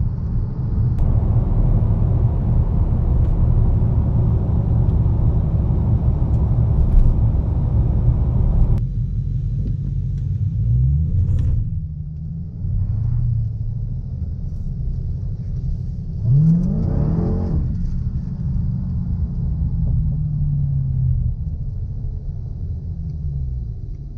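2016 Dodge Challenger Hellcat's supercharged 6.2-litre Hemi V8 heard from inside the cabin, pulling hard at full throttle on a 0-60 mph run. After about nine seconds the throttle closes and the noise drops suddenly. The engine then runs at light load with a few short revs that rise in pitch, the strongest about two-thirds of the way through.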